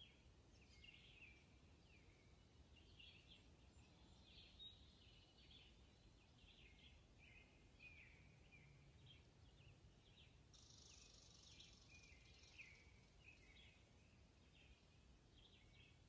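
Near silence with faint songbird chirps: short high calls scattered through, about one every second or so. About ten seconds in, a faint hiss rises for around three seconds.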